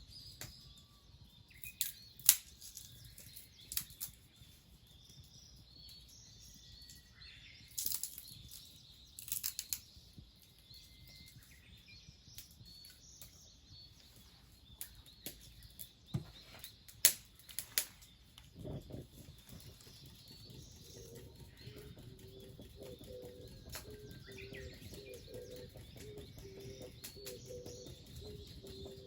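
Small birds chirping outdoors, with about eight sharp snaps or cracks in the first two-thirds. Near the end a dove is cooing in a low, repeated call.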